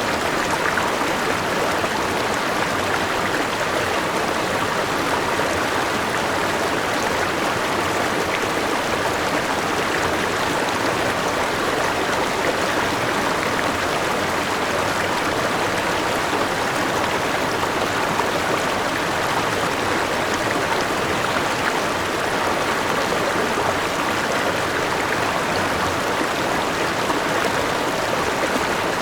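Forest river and small waterfall: water rushing and splashing over rocks in a steady, unbroken flow.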